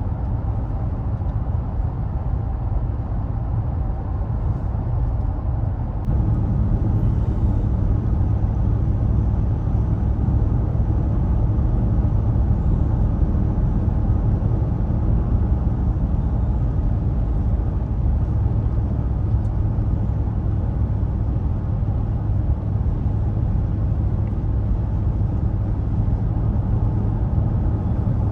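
A vehicle driving, a steady low rumble of engine and road noise that gets a little louder about six seconds in.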